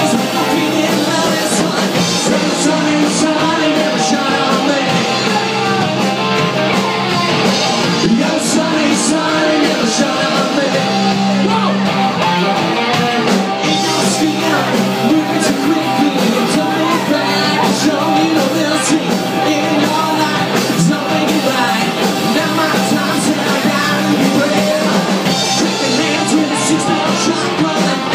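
A rock band playing live: loud, steady full-band music with electric guitars, bass and drums, and some singing or yelling.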